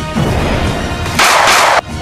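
Film score with battle sound effects laid over it: a loud blast of noise lasting about half a second, starting a little past the middle and cutting off sharply.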